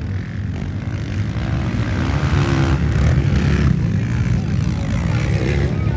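Motocross motorcycle engines running and revving, their pitch rising and falling.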